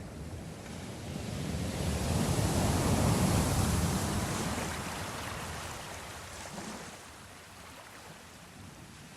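Sea waves: one wave swells up, peaks about three seconds in and washes away, leaving a softer wash of sea.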